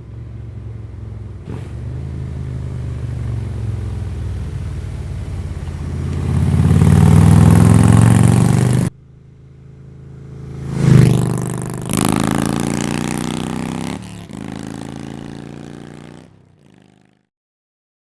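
Harley-Davidson bagger's V-twin engine through Crusher true-dual exhaust with Maverick 4-inch slip-on mufflers, on the road: it runs steadily, gets louder under acceleration and cuts off suddenly, then revs sharply to a peak about eleven seconds in and settles back into a steady run before fading out near the end.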